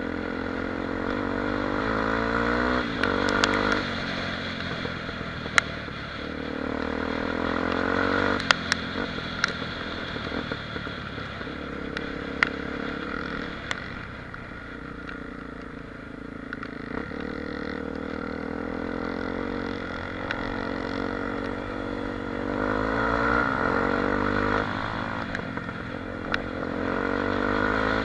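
Honda XR 250 Tornado motorcycle's single-cylinder four-stroke engine under way, repeatedly winding up in pitch and easing back off, with scattered sharp clicks and knocks over it.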